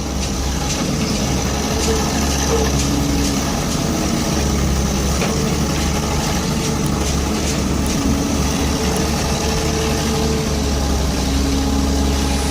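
Excavator's engine running steadily, its note shifting slightly now and then.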